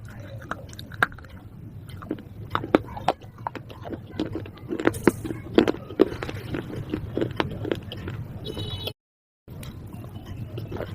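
Close-up biting and chewing of something crunchy, with sharp, irregular crunches several times a second. The sound drops out completely for a moment near the end.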